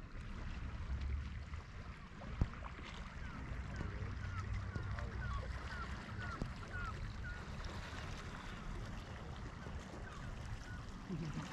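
Lake waves washing on the shore with a steady low wind rumble. In the middle a bird calls a quick run of about eight short notes, and there is one sharp knock a couple of seconds in.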